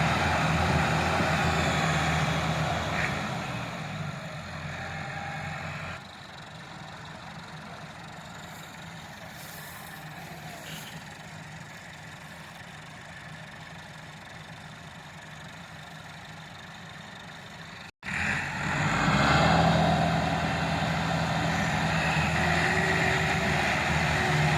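Tractor diesel engine running. It is loud at first, fades over the first few seconds to a quieter steady run, then is loud again after an abrupt break about three-quarters of the way through.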